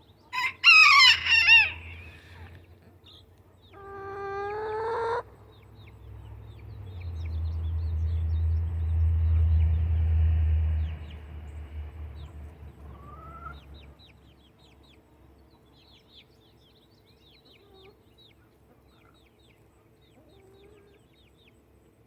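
Backyard rooster crowing loudly near the start, then a second, quieter crowing call about four seconds in. A low rumble follows for several seconds, then only faint high chirps.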